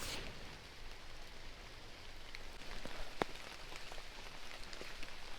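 Light rain falling, with many small scattered drop ticks and one sharper drop about three seconds in.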